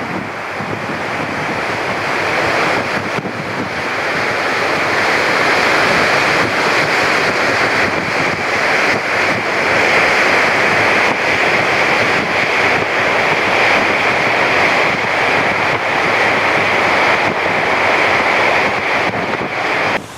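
Wind blowing hard across the microphone over rushing sea water, a steady roar that builds over the first few seconds and then holds.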